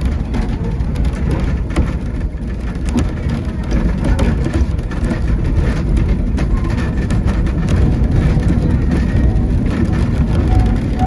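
Narrow-gauge railway train running along the track: a steady low rumble with rapid clicking and clatter of wheels on the rails.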